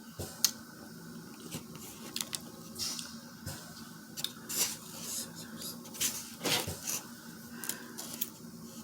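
Close-up eating sounds from a seafood boil: chewing and mouth noises with many small sharp clicks and cracks as the food, shells included, is handled and bitten, several times a second at irregular intervals.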